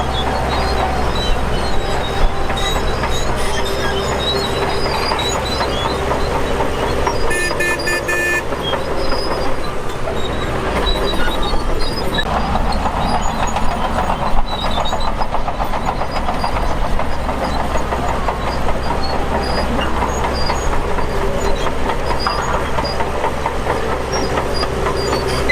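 Shantui DH17 crawler bulldozer running under load as it pushes dirt: a steady engine drone under the continuous clanking rattle of its steel tracks, with a brief high squeal about seven seconds in.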